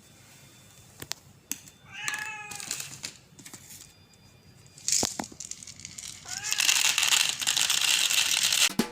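A street cat gives one meow about two seconds in, with a few light clicks around it. From about six and a half seconds a loud, steady rustling and crinkling noise takes over.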